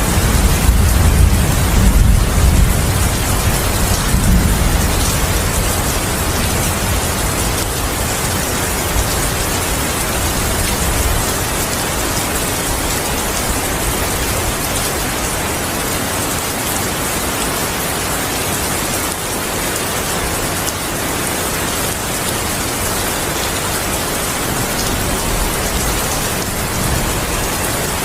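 Steady rain falling, with a low rumble of thunder in the first few seconds that dies away.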